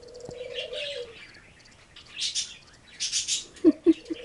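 Birds chirping in short repeated bursts, with a low, drawn-out call near the start. A few sharp knocks come near the end.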